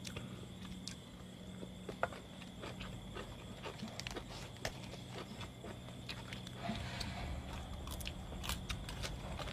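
Eating sounds close to the microphone: chewing, biting and small wet smacks and clicks as food is bitten and picked up by hand, scattered irregularly over a steady low hum.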